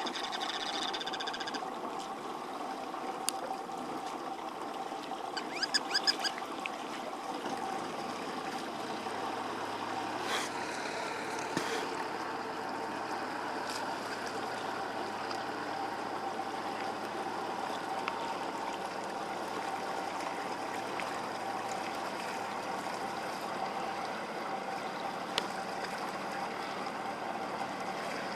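Shoreline ambience: a steady wash of bay water with a low engine hum from a distant boat joining about eight seconds in. A short burst of high chirping calls comes about six seconds in.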